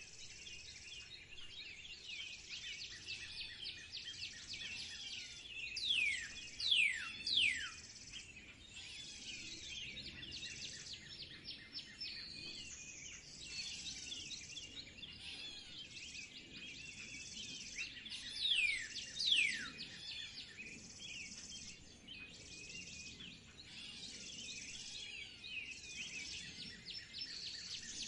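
Several wild birds chirping and singing together over a steady high hiss. Loud whistled calls slide sharply downward in pitch: three about six to seven seconds in, and two more about two-thirds of the way through.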